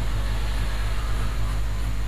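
Steady low electrical hum, strongest around 50 Hz with a second band near 100 Hz, under an even hiss.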